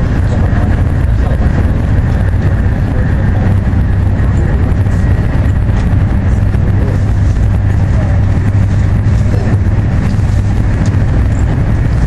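Cabin noise inside an AVE high-speed train running at high speed: a steady loud rumble with a low hum and a faint, high, steady whine.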